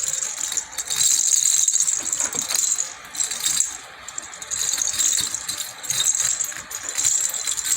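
Pet lovebirds chattering: a rapid, high-pitched, rattly chatter that comes in stretches with short breaks.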